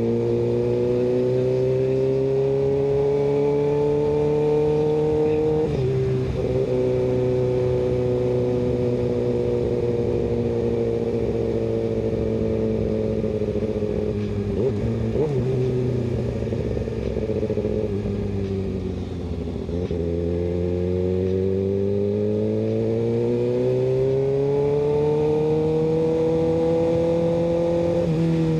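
Kawasaki ZX-6R 636 inline-four with an M4 aftermarket exhaust, under way: the engine note climbs, drops at a gear change about six seconds in, falls away slowly as the bike eases off, then climbs again as it accelerates from about twenty seconds in.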